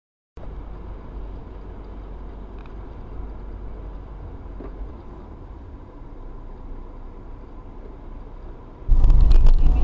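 Steady low rumble of a moving car as picked up by a dashcam, after a brief silence at the start. Near the end it jumps abruptly to a much louder, rougher vehicle rumble with scattered knocks.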